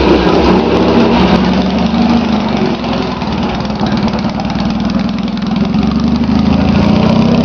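1973 Triumph Tiger parallel-twin motorcycle engine running, its exhaust pulses dense and steady; it eases off about three seconds in and builds again toward the end.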